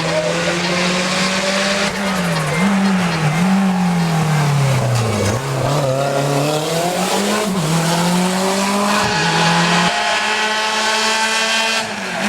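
Race car engine under hard acceleration on a hillclimb, the revs rising and falling several times as the driver shifts gears and lifts for corners.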